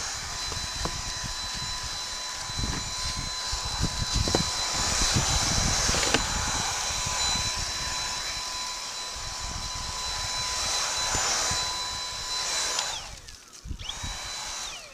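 Vacuum cleaner running with a steady whine and a few knocks as it cleans the surface ahead of caulking; it shuts off about 13 seconds in and briefly runs again near the end.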